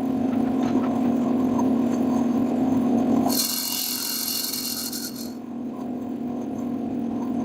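A power tool running while working wood, with a harsher, high-pitched hiss added for about two seconds in the middle.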